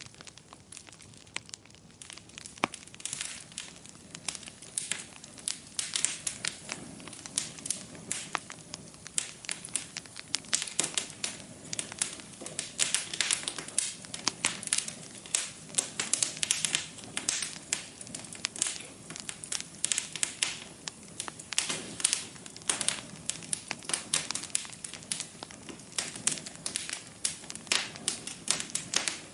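Wood fire crackling in a fireplace: a soft hiss of burning with many irregular sharp pops and snaps, sparser for the first few seconds, then coming thick and fast.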